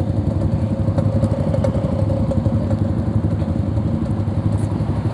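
Yamaha RX-King's 135 cc two-stroke engine running steadily while riding, mixed with clatter from riding over a badly broken road.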